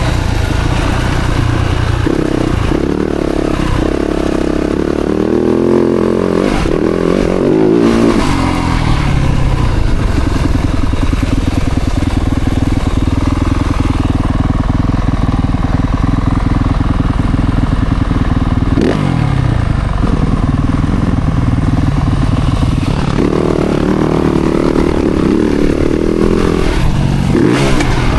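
Yamaha YZ-F four-stroke single-cylinder motocross bike engine being ridden hard. The pitch climbs and drops repeatedly as it revs through the gears, with steadier stretches in between.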